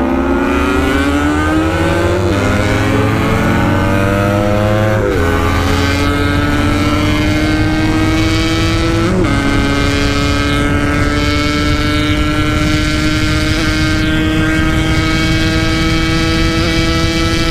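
Yamaha RX-King two-stroke motorcycle engine, with a ported 150 oversize block, at full throttle. Its revs climb, dip briefly at gear changes about two, five and nine seconds in, then climb slowly and steadily in top gear. The rider complains that these upshifts hang and do not engage cleanly.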